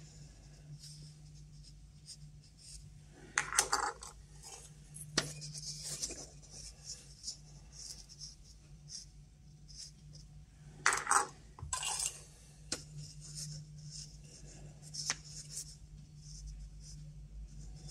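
Small clinks, taps and scrapes of a metal Geiger counter tube being handled and turned by hand, with louder bursts of handling about three and a half and eleven seconds in. A faint steady low hum runs underneath.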